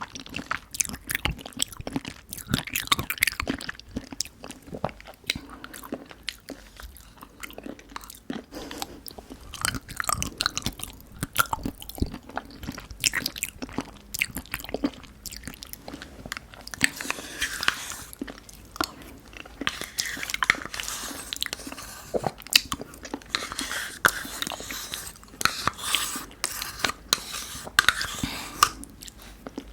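Close-miked eating sounds of Nanaco pudding: repeated bites and chewing, with many short wet mouth clicks and smacks.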